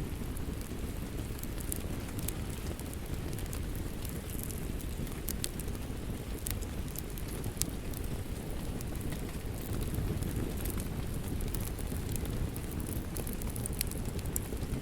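Wood fire crackling with scattered sharp pops over a steady rain hiss and low rumble.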